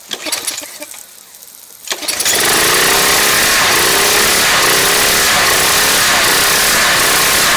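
Briggs & Stratton 175cc engine on a Craftsman pressure washer pull-started by its recoil cord, catching about two seconds in and then running steadily and loud.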